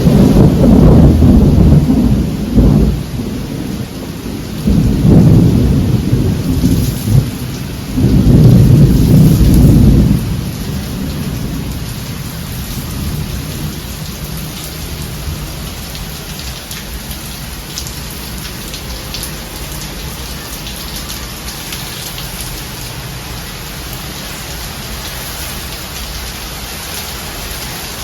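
Thunderstorm: thunder rumbles loudly three times in the first ten seconds over steady heavy rain, then the rain carries on alone with an even hiss.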